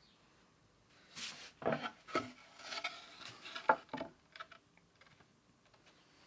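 Wooden workpieces being handled on a workbench: an irregular run of knocks and scraping, with the sharpest knock a little under four seconds in.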